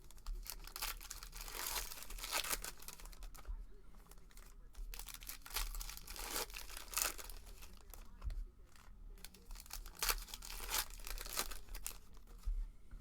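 Trading-card packs being torn open, their plastic wrappers ripping and crinkling in repeated bursts, with cards being handled.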